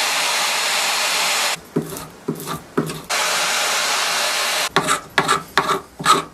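Old silicone sealant being cleaned off a plywood drawer part. A power tool runs with a steady hiss for about a second and a half, stops, and runs again in the middle. Between and after the runs come short scraping strokes, quickening near the end.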